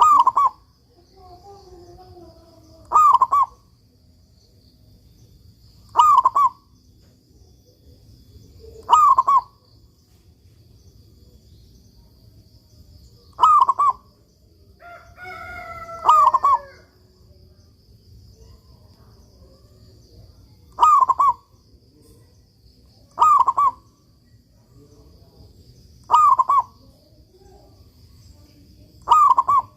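Zebra dove (perkutut) cooing, repeating its short, clipped song phrase about every three seconds, ten times in all. Around the middle a second bird's lower call with gliding pitch overlaps it.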